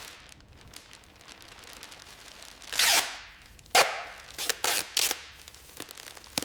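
Workshop work noises: quiet clicks, a short hiss about three seconds in, a sharp knock a little under four seconds in, then a few more short hissing bursts.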